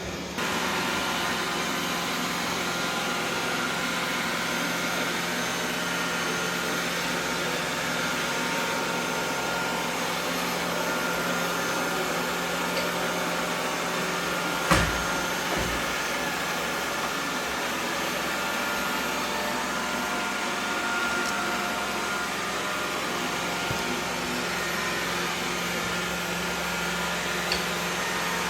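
Xiaomi Mi Robot Vacuum-Mop 2 Ultra robot vacuum running steadily, its suction fan giving an even whir over a low hum, a little louder just after the start. A single sharp knock about halfway through, and a couple of faint clicks later.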